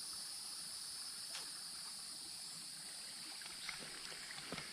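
Creek water trickling quietly, under a steady high-pitched drone of insects, with a few faint small ticks.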